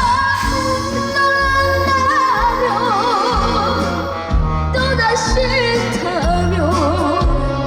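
Trot song: a voice sings a melody with wide vibrato over a backing track with a steady bass beat.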